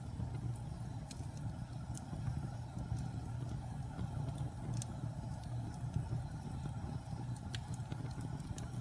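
Wood fire burning in a fireplace: a steady low rumble with a handful of sharp crackles and pops scattered through it.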